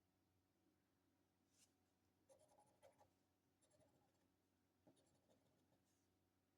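Faint scratching of a coin on a scratch-off lottery ticket, in several short strokes, scraping off the squares of a crossword game.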